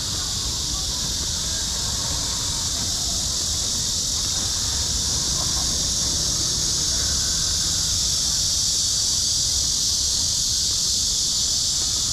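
A chorus of cicadas making a steady, high-pitched drone that grows slightly louder, over a low rumble of city background.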